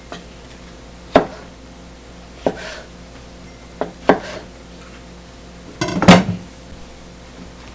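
Kitchenware being handled: utensils and dishes knocking and clinking against each other in single sharp knocks every second or so, with a quick rattle of clicks and the loudest clatter about six seconds in.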